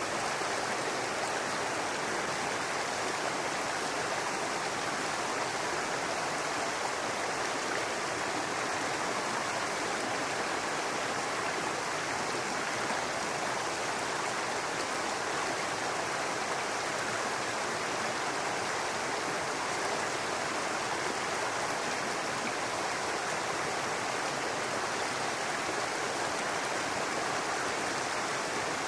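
Small brook running over rocks: a steady babbling rush of water with no change in level.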